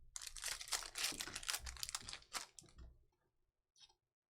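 Foil trading-card pack wrapper being torn open and crinkled in the hands: a dense crackling for about three seconds, then a brief rustle near the end.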